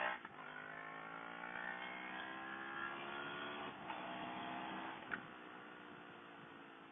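CFMoto CL-X 700's parallel-twin engine pulling under acceleration, its pitch climbing steadily, with a short break about four seconds in at a gear change. It then eases off and grows quieter near the end.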